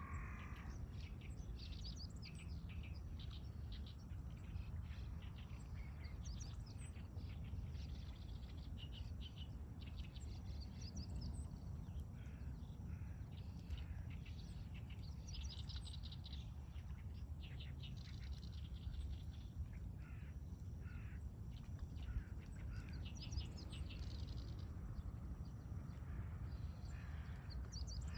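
Several small birds chirping and singing in quick short calls that come and go, over a steady low rumble.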